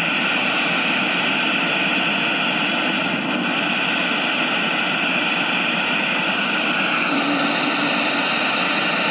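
Ghost box (hex box) putting out loud, steady radio static hiss.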